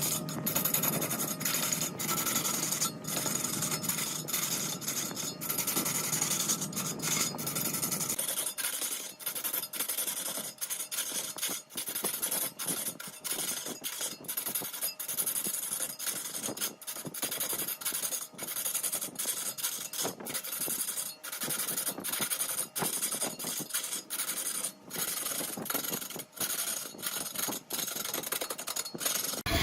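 A cutting tool scraping against mahogany spinning on a wood lathe, a rough rasping broken by many short gaps. The deeper part of the sound drops away about eight seconds in.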